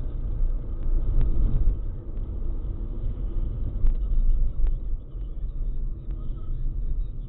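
Steady low rumble of a car on the move, engine and road noise, with a few faint scattered ticks.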